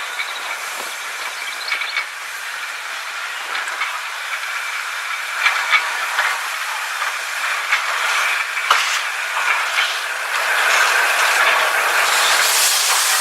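Train running along the track, with irregular clicks and rattles from the wheels and rail joints. A hiss builds and grows louder over the last few seconds.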